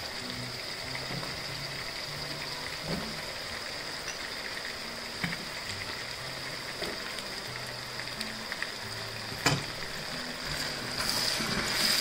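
Zucchini, green beans and onion sizzling steadily in a frying pan, with soft background music underneath. There is a single light knock about nine and a half seconds in, and near the end a wooden spoon starts stirring the vegetables, making the sizzling louder.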